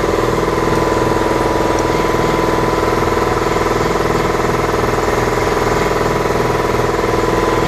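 Air compressor running steadily with a rapid, even pulsing as it fills its tank.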